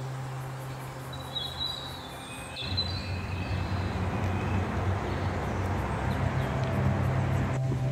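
A few short high bird chirps in the first couple of seconds. Then, from about three seconds in, the steady running noise of a moving train with a low hum builds and carries on.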